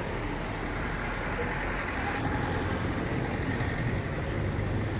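Steady street noise with traffic.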